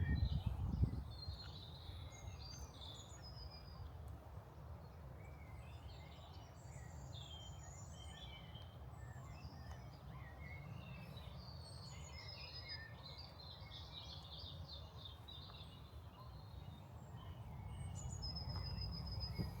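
Several small birds chirping and trilling, many short high calls overlapping, over a steady low outdoor rumble. A brief thump at the very start.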